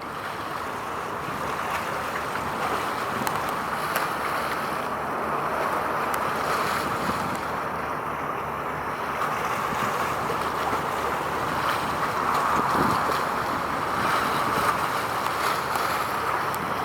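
Steady outdoor rushing noise of wind on the microphone, with no distinct event standing out.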